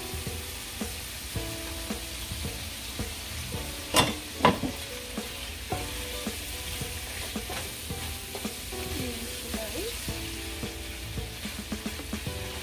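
Chicken pieces and onions sizzling in a hot frying pan while being stirred and turned with a silicone spatula, with scattered small scrapes and clicks. Two sharp knocks come about four seconds in, half a second apart.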